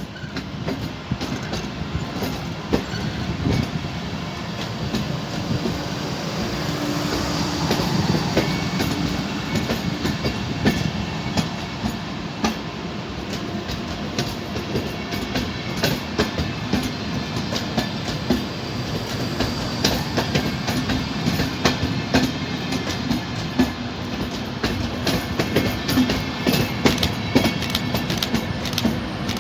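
A train rolling past, its wheels clattering over the track in a dense run of rapid clicks over a steady rumble.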